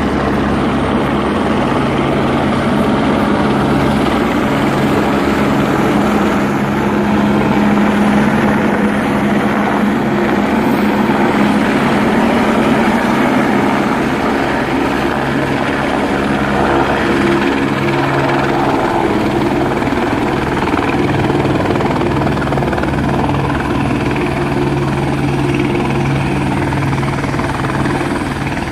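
Medical helicopter running close by, a loud, steady rotor and engine noise.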